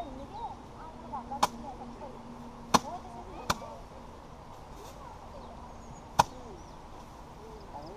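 Four sharp whacks of rice-paddy bundles beaten by hand against a threshing surface to knock the grain loose, spaced irregularly a second or more apart.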